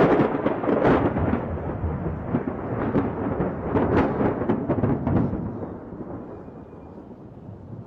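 Storm noise: a loud, even roar full of sharp crackles for about the first five seconds, then easing to a quieter steady noise.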